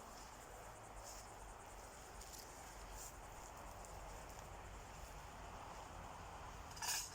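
Grass insects chirping faintly in a steady, repeating pattern. A brief, louder, sharp pitched sound comes near the end.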